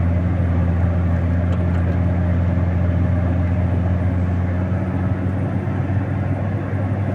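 Engine of a snow-clearing machine running steadily under load as it pushes its blade along the snow bank, a low even hum that eases slightly in level in the second half.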